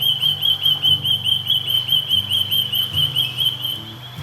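Australian native bird calling: a fast, even series of short, high whistled notes, about six a second, that stops shortly before the end.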